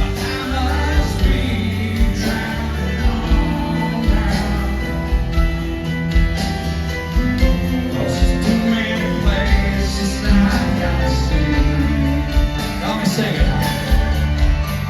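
Live rock band playing a slow number, with a sung lead vocal over electric guitars, keyboards and a steady drum beat.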